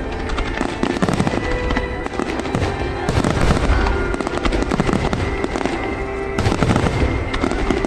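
Fireworks display going off in a dense run of overlapping bangs and crackles, with music playing underneath.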